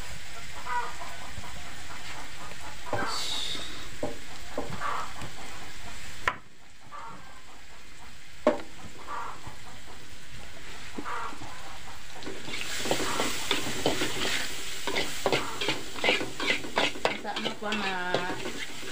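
Ground spice paste sizzling as it fries in an aluminium wok. A sharp click comes a little past six seconds, after which the sizzle is quieter. From about two-thirds of the way in, a metal spatula scrapes and taps the wok in quick strokes as the paste is stirred.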